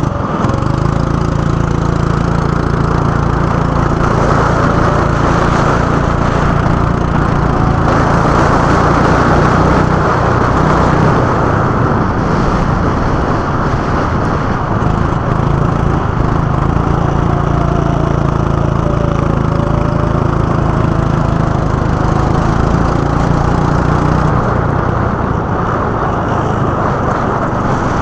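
Go-kart engine running loudly and continuously. Its note comes and goes in strength, fading for a few seconds about ten seconds in and again near the end, as the kart's speed changes.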